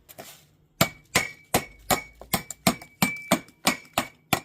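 Hammer tapping a wedged metal ACO drain grate to loosen it from its channel: a steady run of sharp metallic strikes, about two or three a second, each with a short ring, starting about a second in.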